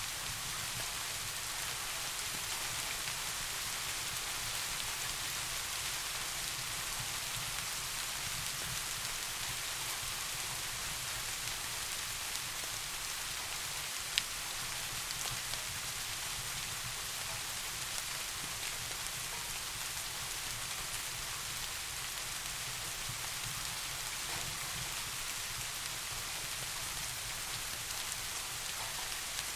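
Steady rain falling, an even hiss with no change in strength, and a single sharp tick about halfway through.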